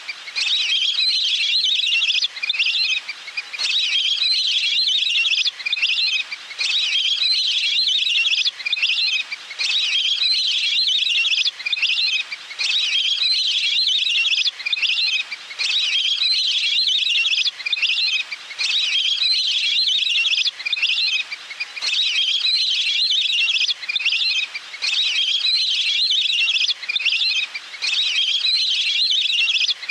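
Little grebe calls: a rapid, high-pitched trilling call repeated in bursts of a second or two, over and over with short breaks.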